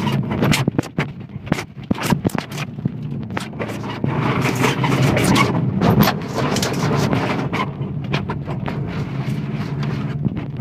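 Rally car engine running at a steady idle, with many sharp clicks and knocks over it.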